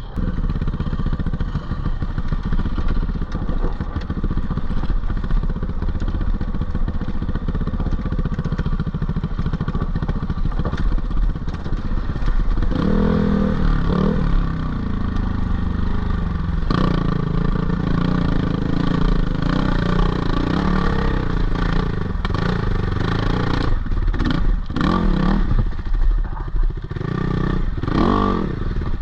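GPX 450R four-stroke dirt bike engine running under load, the revs rising and falling several times. Clattering knocks from the bike over rough ground come thick in the second half.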